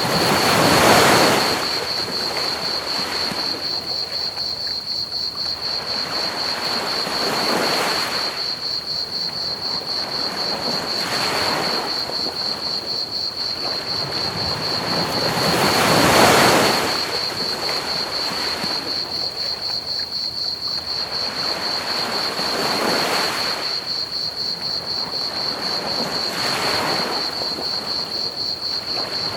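Ocean waves breaking on a beach in slow swells every few seconds, the biggest about a second in and again about halfway through, over a steady hiss of pink noise. Crickets chirp steadily and high-pitched throughout.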